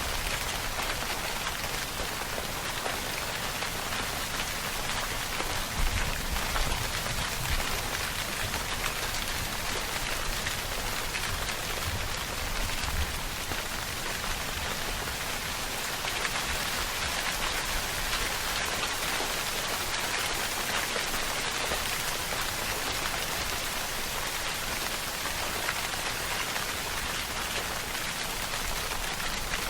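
Steady rainfall: a dense, even patter of raindrops on a surface, with a few soft low thuds about six and thirteen seconds in.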